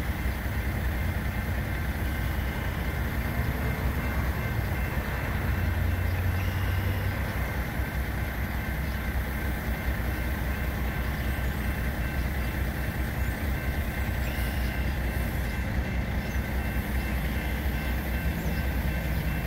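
A train passing a railroad crossing: a steady, continuous rumble with a high steady tone held over it.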